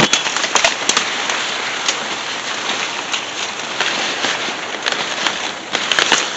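Footsteps crunching and rustling through dry leaves and brush, a dense crackle with many small snaps.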